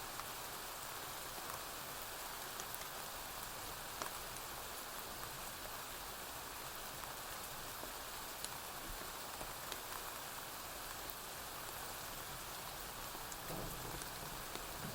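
Steady rain falling on a porch roof, with scattered sharp crackles through it. A low rumble of distant thunder begins near the end.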